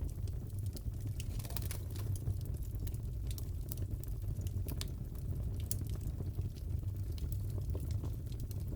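Crackling fireplace: a steady low rumble of the fire with many scattered, irregular sharp pops and crackles.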